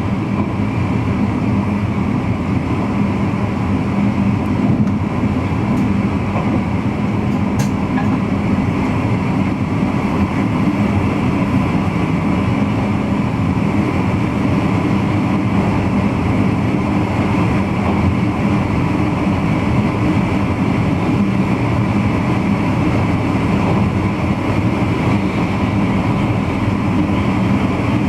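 Steady running noise of a VIRM double-deck electric intercity train under way, heard from the driver's cab: wheel-on-rail rumble with a steady low hum.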